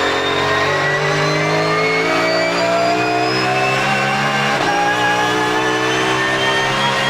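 Porsche GT3 Cup race car's flat-six accelerating hard, with the whine of its gears rising steadily in pitch through a long pull; a quick gear change breaks the sound about four and a half seconds in.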